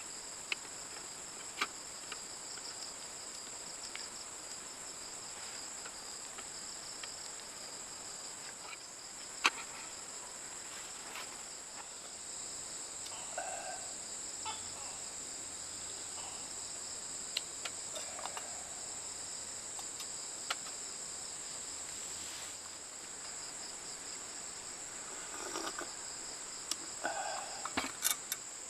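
Steady insect chorus, a constant high-pitched shrill drone, with scattered sharp clicks and knocks and a few short mid-pitched sounds, the loudest click about nine seconds in.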